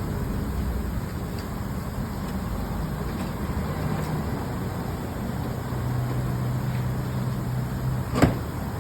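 A car's engine running with a steady low rumble and hum, and one sharp click near the end.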